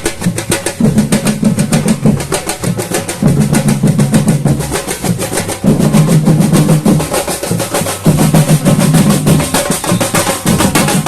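Samba batucada drum ensemble playing: snare drums keep a fast, even rhythm over the deep, pulsing beat of the bass drums.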